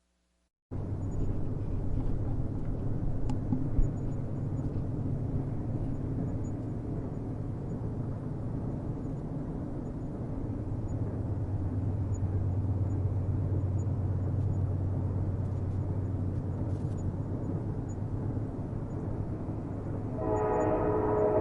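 Train running with a steady low rumble that cuts in suddenly under a second in; near the end its horn starts blowing, a steady chord-like blast.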